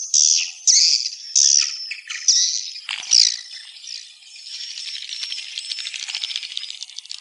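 Swiftlet calls: a quick run of loud, buzzy chirps for the first three seconds or so, then a fast, even rattling trill from about four seconds in.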